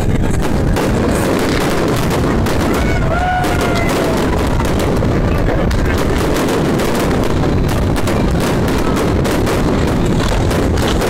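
Aerial fireworks shells bursting in rapid succession, many overlapping bangs and crackles.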